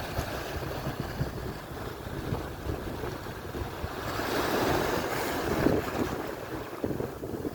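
Atlantic surf washing onto the shore, with a wave breaking and surging louder about four seconds in, and wind buffeting the microphone.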